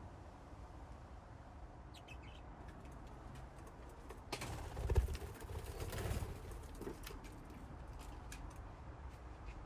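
Budgies in a colony cage giving scattered short chirps over a steady low hum, with a loud flurry of flapping wings about halfway through.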